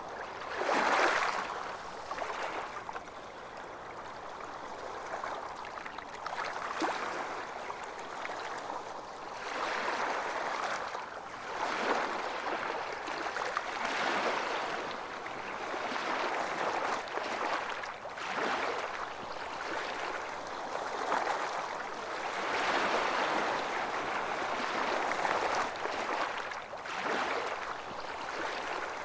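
Small ocean waves washing onto a beach, a swell of surf and a hiss of foam every few seconds, one stronger wash about a second in.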